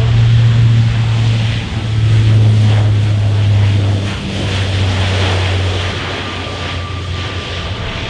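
An aircraft's engines flying past with a loud, steady low drone over a roar of noise. About four seconds in, the drone drops a little in pitch and fades.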